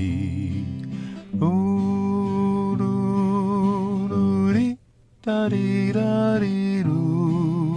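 Yodeled "ooh-doo-doo-dee" refrain sung on long held notes with a wavering vibrato, over acoustic guitar accompaniment. The first long note slides up at its end and breaks off, a brief silence follows about five seconds in, and then the singing resumes.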